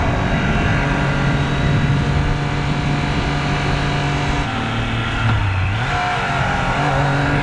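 Triumph Trident 660's three-cylinder engine running at a steady throttle. Its note drops about four and a half seconds in, dips lower, then picks up again about six seconds in.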